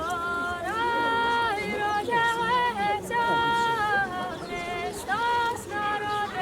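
A child singing a song solo and unaccompanied, with high held notes, several of them slid up into.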